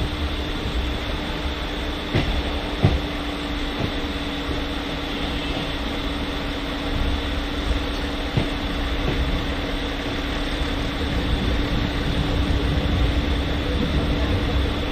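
Electric suburban local train (EMU) running along the track, heard from on board: a steady rumble and rush with a constant hum, broken by a few sharp clacks of the wheels over rail joints, the loudest about three seconds in.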